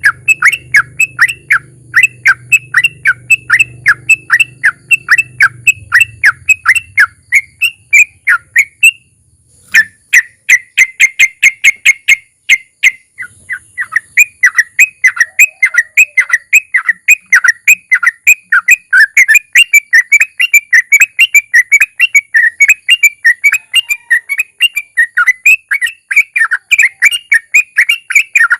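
Sooty-headed bulbul (trucukan) singing a long rapid 'ropel' run of short whistled notes, about five a second. The run breaks off for about a second around nine seconds in, then resumes.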